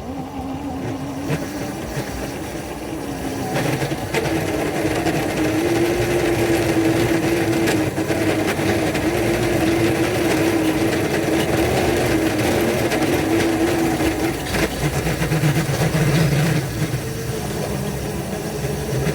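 The low-geared locomotive No. 10 running under load as it pushes into deep snow, a steady mechanical hum. Its pitch steps up about four seconds in and drops back to a lower hum near the end.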